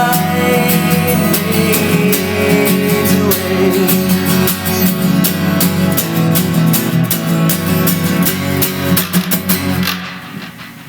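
Acoustic guitar strummed in a steady rhythm through the last bars of a song; the playing falls away about ten seconds in and the sound dies out.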